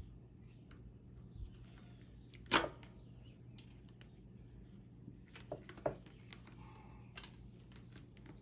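Scattered clicks and knocks of hand work on a lawn mower as debris is pulled off it, the loudest about two and a half seconds in and a few more near the end, over a steady low hum.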